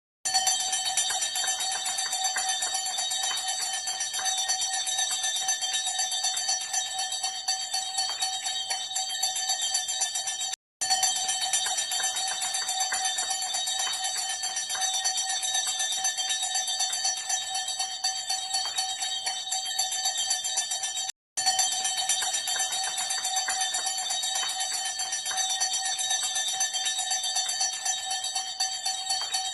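Hand bells ringing rapidly and continuously, a dense metallic jangle of steady ringing tones. It breaks off for two brief silent gaps, about a third and two thirds of the way through.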